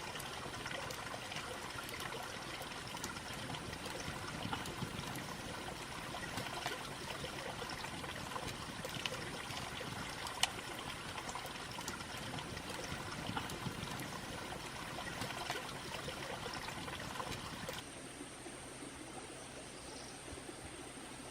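Water trickling and splashing, with one sharp click about ten seconds in. Near the end it cuts off abruptly to quieter forest background with a steady high-pitched insect drone.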